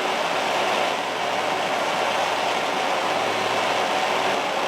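Steady rushing hiss that stays even in pitch and loudness, from the heating of a home-built hero's engine (aeolipile) as it comes up to steam.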